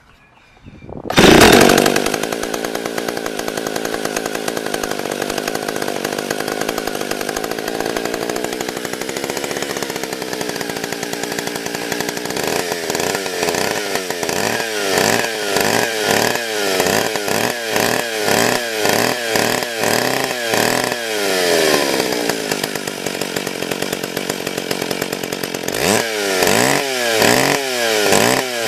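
McCulloch two-stroke chainsaw with a 24-inch bar starting from cold after three months of sitting. It catches about a second in and runs steadily, then is revved up and down repeatedly about once a second, settles, and is revved again near the end.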